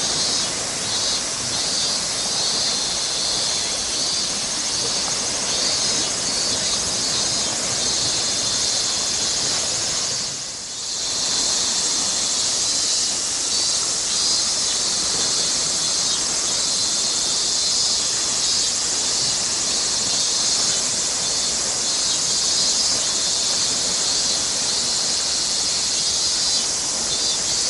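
Chorus of cicadas: a dense, steady high-pitched buzzing with a fine flutter, dipping briefly about ten seconds in.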